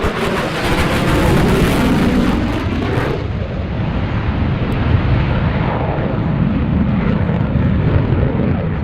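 Jet noise from a twin-engine F/A-18 Super Hornet flying past the crowd. It is loud and hissing for the first three seconds, then the high hiss falls away and a deep rumble carries on.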